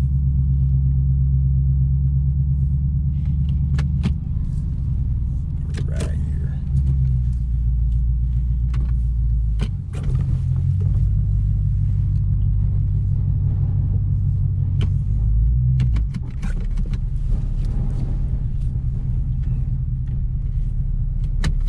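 Infiniti Q45's VK45 V8, breathing through freshly fitted Nissan Titan shorty headers with no exhaust leaks, rumbling steadily as the car creeps along at low speed. The note drops briefly about four, ten and sixteen seconds in.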